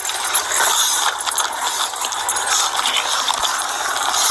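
Rustling and scuffling of clothing and gear rubbing close against a police body-worn camera's microphone during a struggle on the ground: a dense, scratchy, uneven noise.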